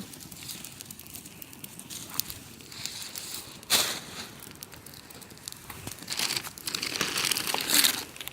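Fire of fir branches crackling, with scattered sharp pops, one louder snap about three and a half seconds in, and a denser burst of crackling near the end.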